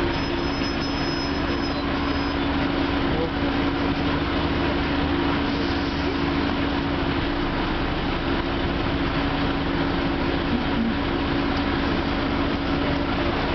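Tram in motion, heard from inside the car: a steady running noise of wheels on rails with a constant motor hum.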